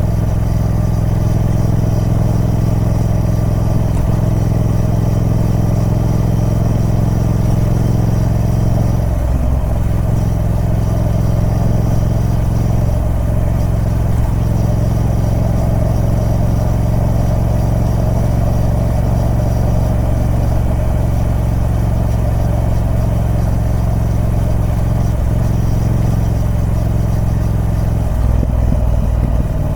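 Triumph Speed Twin 1200's parallel-twin engine running on its stock exhaust at steady revs, with a brief change in engine note about nine seconds in and again near the end.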